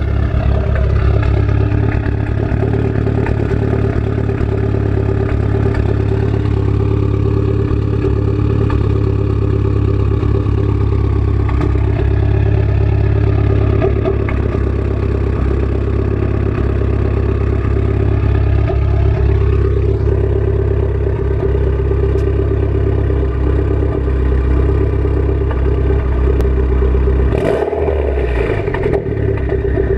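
Mitsubishi Lancer Evolution X's turbocharged 2.0-litre four-cylinder idling through a straight-pipe exhaust with no mufflers, a loud, steady, deep drone whose pitch wavers slightly now and then. A short burst of extra noise comes near the end.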